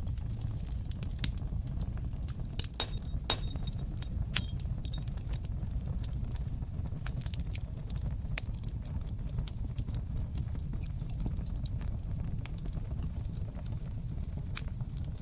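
Wood fire crackling in a fireplace: a steady low rush of the flames under frequent small pops and snaps, with a louder pop about four seconds in.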